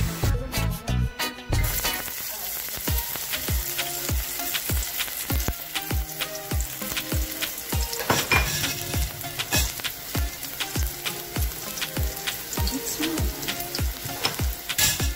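Chopped onion and garlic sizzling in hot oil in a wok, a steady hiss that starts about two seconds in. Background music with a steady beat, about two beats a second, plays throughout.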